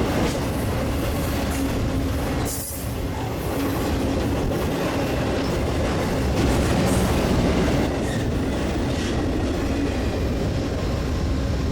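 BNSF intermodal freight train rolling past, its steel wheels clattering on the rails in a steady, loud rumble.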